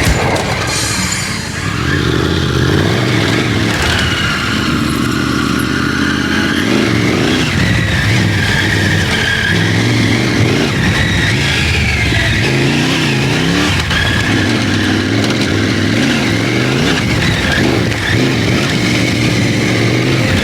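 Triumph Tiger 900 Rally Pro's three-cylinder engine running on a dirt trail, the revs rising and falling as the throttle is worked, with a quick up-and-down burst of revs about two-thirds of the way through.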